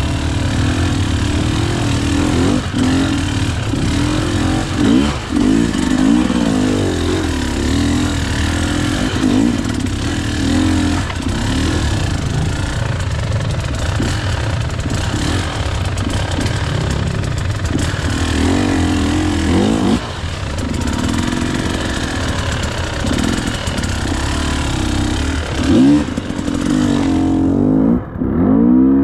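KTM EXC 300 two-stroke single-cylinder enduro motorcycle being ridden, its engine revving up and down over and over. Near the end the sound goes muffled for a moment.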